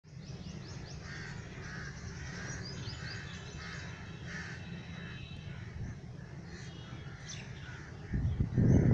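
Crows cawing in a repeated series, with smaller birds chirping high above them, over a low steady rumble. Near the end a loud low buffeting noise sets in, like wind hitting the microphone.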